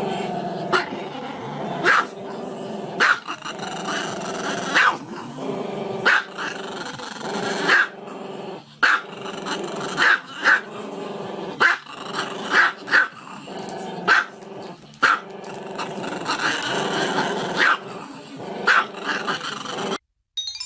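A dog growling steadily, breaking into sharp barks every second or so. The sound cuts off suddenly near the end.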